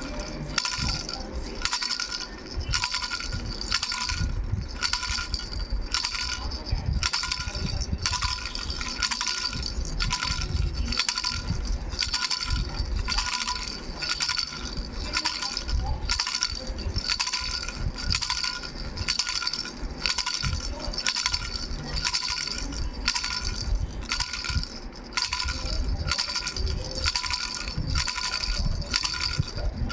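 Three-bell baby rattle shaken in a steady rhythm, a few jingling strokes a second, its small bells ringing between strokes.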